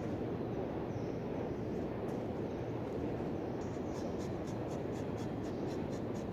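Rubber-tapping knife scraping a groove into a rubber tree's bark, over a steady low noise, with a run of faint high ticks about two-thirds of the way through.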